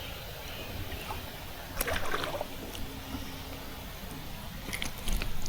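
Canoe on a creek: light water splashing and a few small knocks against the boat over a steady low background. The knocks come about two seconds in and again near the end.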